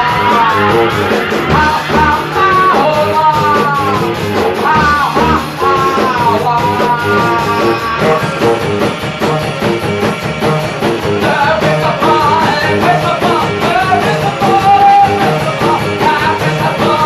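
Rock band playing a song: a steady drum beat and guitar under a lead melody that slides down in pitch over and over.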